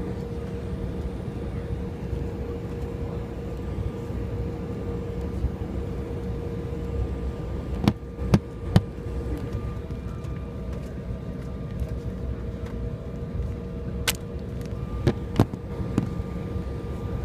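Steady low cabin hum of an Embraer 175 airliner waiting for departure, with a steady droning tone, broken by a few sharp clicks or knocks about eight seconds in and again near the end.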